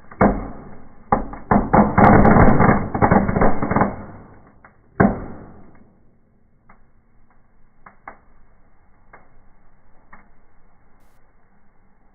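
Fireworks burning in a fireplace: a dense run of rapid crackling and popping for about four seconds, one loud crack about five seconds in, then only an occasional single crackle.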